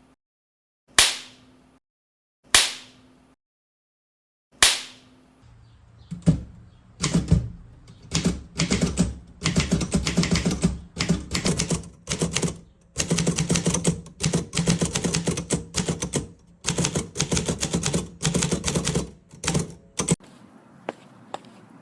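Three single sharp cracks about two seconds apart, each ringing briefly, then a long run of rapid clattering clicks in bursts with short pauses, like fast typing, that stops near the end.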